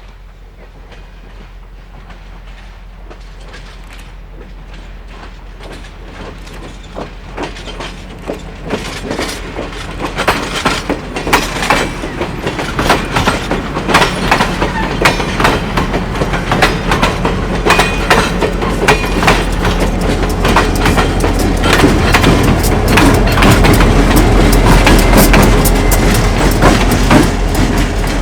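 CSXT track geometry train, a single diesel locomotive with three cars, approaching and passing at track speed: the engine rumble and the rapid clicking of wheels over the rail build steadily, loudest near the end.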